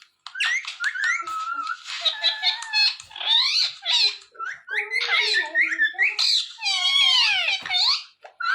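Indian ringneck parrot chattering: a near-continuous run of high, squeaky calls that glide up and down in pitch, broken by short pauses.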